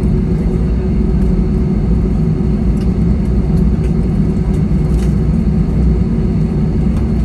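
Steady drone of an airliner's engines heard from inside the passenger cabin on the ground after landing, a low rumble with a constant hum over it.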